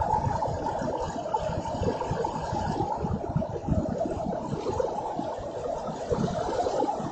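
Storm wind rushing steadily and buffeting the microphone in irregular low gusts.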